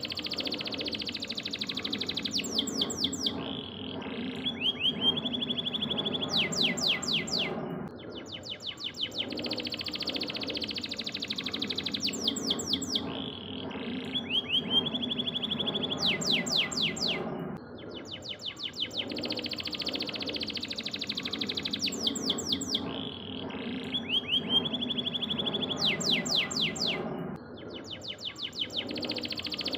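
Domestic canary singing rapid trills and rolling phrases, a song-training ('masteran') recording for cage birds. The same song passage repeats about every ten seconds, as if looped.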